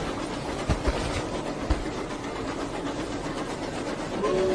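Rolling noise inside a moving train carriage, with a few low knocks in the first couple of seconds; a steady two-note tone comes in near the end.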